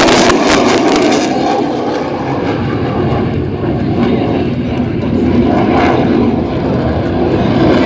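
F-16 fighter jet's engine noise, loud, during a high-speed pass, with a crackle in the first second or so. The hiss at the top fades out after about a second and a half, leaving a deep, steady jet roar.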